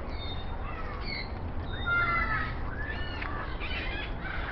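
Parrots chirping and calling: a scatter of short whistled calls that glide up and down in pitch, several overlapping as more than one bird calls.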